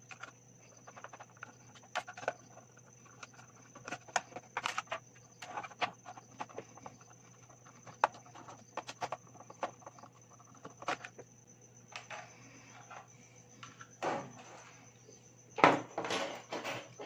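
Irregular clicks, knocks and scrapes of a small LED driver's casing being handled and worked open with tools, with the loudest run of knocks near the end.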